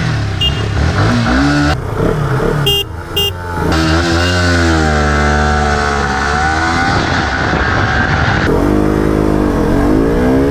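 Single-cylinder sport motorcycle engines of a Yamaha R15 V3 and a KTM RC 200 revving at a standstill, the pitch rising and falling with repeated throttle blips before a drag launch. A few short high beeps come about half a second in and again around three seconds in.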